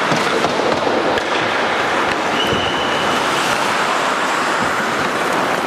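Ice hockey play: a steady scraping hiss of skates on the ice, with scattered clacks of sticks and puck and a brief high tone about halfway through.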